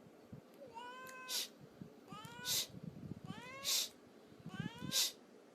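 Domestic cat meowing four times, about a second apart, each call rising in pitch and followed by a short breathy sound.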